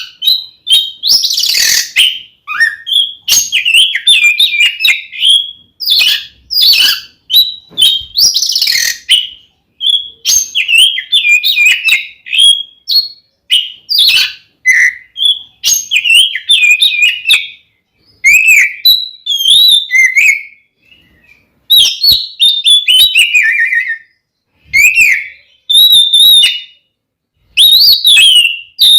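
Oriental magpie-robin singing loudly and almost without a break: rapid runs of varied whistled notes, broken by a few harsh, rasping bursts. A couple of short pauses come in the second half.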